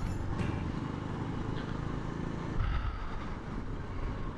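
Motorcycle engine running and wind rushing past while riding, as picked up by a helmet-mounted action camera's microphone, with a brief louder swell about halfway through.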